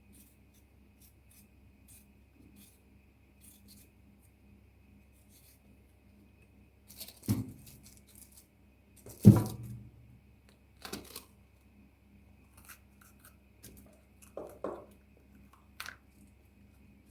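Kitchen handling sounds: light scattered clicks and rustles, then several separate knocks of objects being set down or handled, the loudest about nine seconds in.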